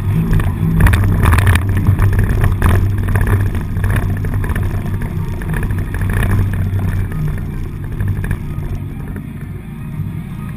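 Four-cylinder demolition derby car engine running, heard from inside the car, with a cluster of sharp knocks and rattles in the first few seconds.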